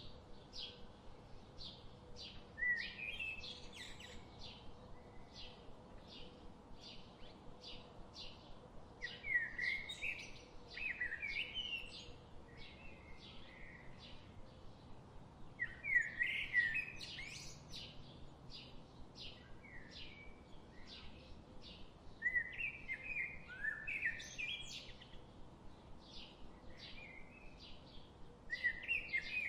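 Forest birdsong: one bird repeats a short high chirp about two or three times a second throughout, while louder warbling song phrases come every five to seven seconds.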